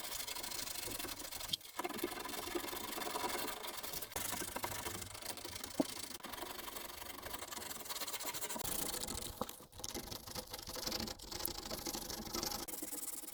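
40-grit sandpaper rasping steadily over cured body filler on a steel car body panel, with a few brief pauses between runs of strokes, while the filler is rough-sanded to shape.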